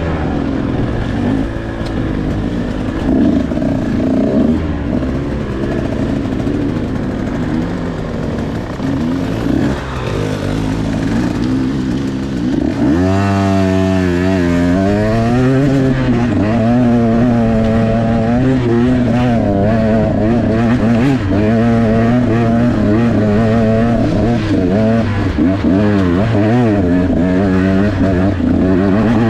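Dirt bike engine ridden off-road, its pitch rising and falling constantly with the throttle. About thirteen seconds in it drops low, then climbs sharply as the rider accelerates.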